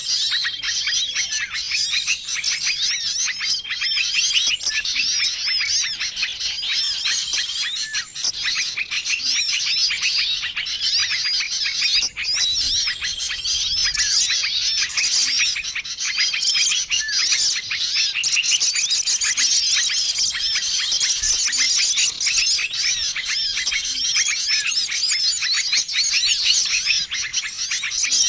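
Dense chorus of many small songbirds chirping and trilling over one another without a break: a lure recording made to draw small wild birds in. Short, level, whistled notes stand out every few seconds.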